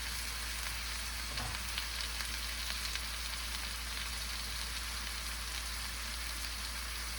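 Pulled chicken, onions and zucchini sizzling steadily in a frying pan, with small crackles through the hiss.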